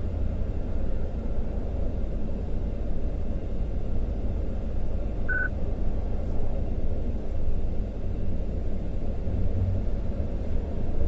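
Steady low rumble of a parked patrol car's engine idling, heard from inside the cabin, with one short electronic beep about five seconds in.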